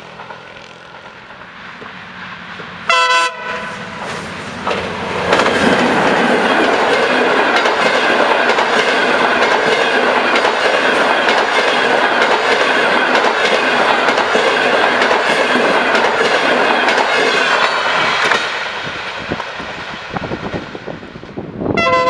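Long-distance diesel passenger train sounding a short blast on its horn about three seconds in, then passing close at speed with a loud, steady rush of wheels on rail that fades away near the end. Another horn blast sounds just before the end.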